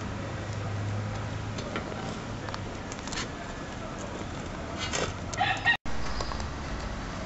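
A bird gives a short call about five seconds in, over a steady outdoor background hum. The sound drops out for a split second just before six seconds, at an edit.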